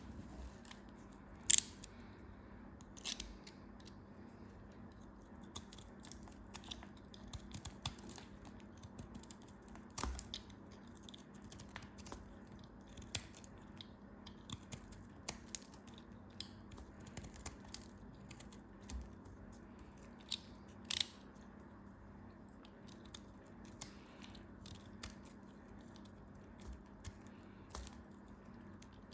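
Scattered small crisp crunches and clicks of a crumbly material being cut and cracked by hand, with two sharper cracks, one about a second and a half in and one about two-thirds of the way through, over a faint steady low hum.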